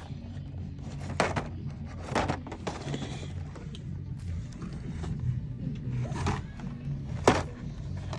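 Background music playing over the store's sound system, with a few sharp knocks about one, two and seven seconds in, typical of plastic blister-packed toy cars being handled on the store pegs.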